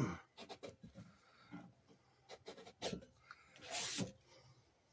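Paper-towel-and-wire swab rubbing and scraping inside the steel fork tube of a 1972 Arctic Cat Ramrod minibike, wiping out the rust. There are short, uneven scrapes, with one longer, louder scrape about four seconds in.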